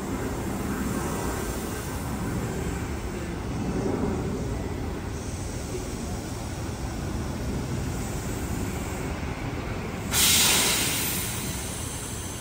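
Electric train rumbling steadily at a station platform, then about ten seconds in a sudden loud hiss of released air that fades away over a second or two.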